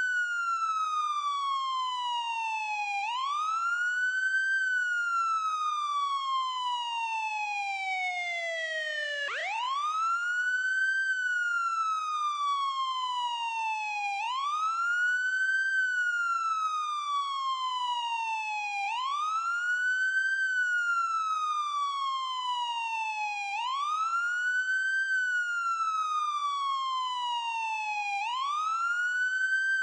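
Electronic ambulance siren sounding a wail: the pitch sweeps up quickly, then glides slowly down, repeating about every four to five seconds. About nine seconds in, one downward glide runs longer and lower before the pitch jumps sharply back up.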